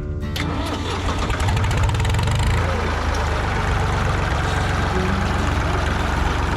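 Old tractor engine running: about a third of a second in it turns louder and rougher, comes up in speed for about a second, then settles into a steady run.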